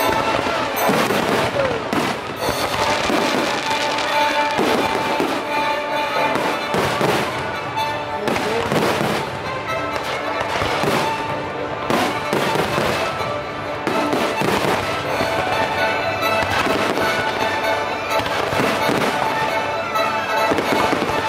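Fireworks bursting over and over in quick succession, mixed with the show's music soundtrack.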